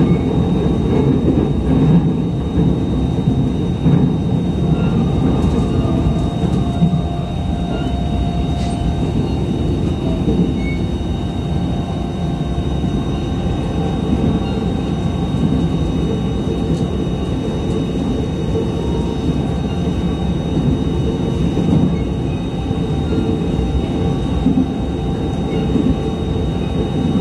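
Inside a JR East E129 series electric train running between stations: a steady low rumble of wheels on rail and running gear, with a few faint steady tones above it.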